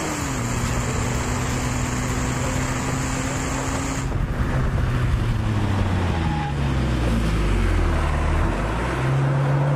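Stock BMW 330Ci's straight-six engine running at speed with wind rush in the open cabin; the engine note holds steady, then falls away in steps over the last few seconds as the car slows.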